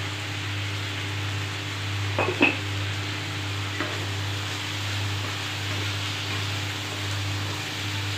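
Mushrooms in masala sizzling in a non-stick kadhai while being stirred with a wooden spatula, a steady frying hiss. The spatula knocks against the pan a few times, about two seconds in and again near four seconds.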